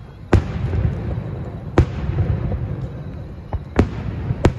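Aerial firework shells bursting overhead: four sharp booms and a fainter crack within a few seconds, the first boom the loudest, with a low rumble lingering between them.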